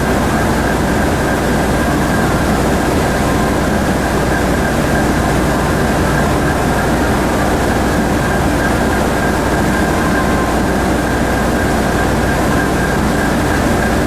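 Steady, loud drone of a car ferry under way: engine and machinery noise with a constant low hum and an even rushing noise, unchanging throughout.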